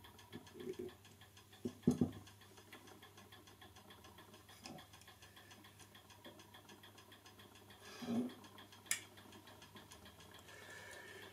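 Scattered small clicks and taps of a screwdriver and screws on a clock movement's metal parts during reassembly, over a faint steady hum.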